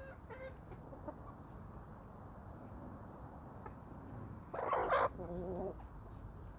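Domestic chickens clucking softly, then one loud harsh call about two-thirds of the way through, followed at once by a short wavering call.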